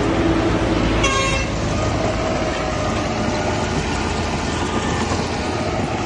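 Heavy diesel machinery running steadily, with a short high-pitched toot about a second in.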